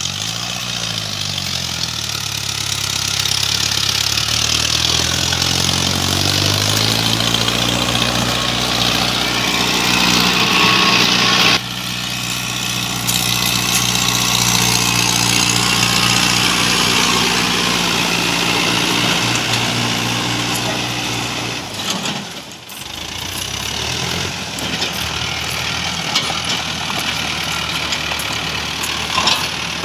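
Tractor diesel engine revving up over several seconds and held at high revs under strain, as the tractor tries to pull a wheel out of soft ground where it is stuck. The engine note drops away about two-thirds of the way through.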